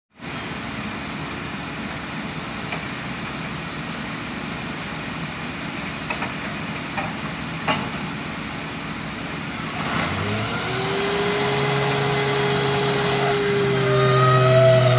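An engine running steadily with a few knocks, then, about ten seconds in, revving up with a rising tone and getting louder.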